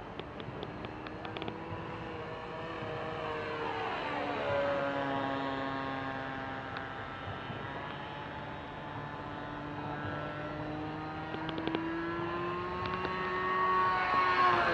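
Small gasoline engine of a single-propeller radio-controlled model plane running in flight. Its pitch drops about four seconds in, then climbs slowly, and the sound grows louder near the end as the plane comes closer.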